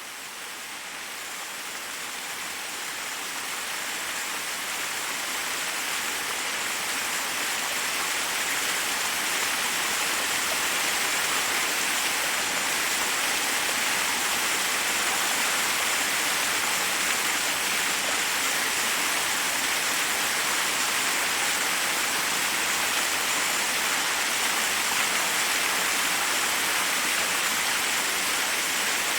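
Waterfall rushing over rocks: a steady, hiss-like roar of falling water that fades in over the first ten seconds or so.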